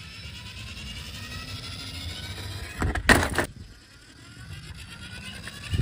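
Toy car's small motor whining, rising slowly in pitch, broken about three seconds in by a short loud clatter.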